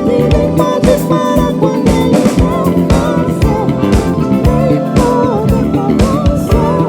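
Live soul band playing an instrumental passage: drum kit keeping a steady beat under bass and keyboards, with a lead melody line bending and wavering in pitch over the top.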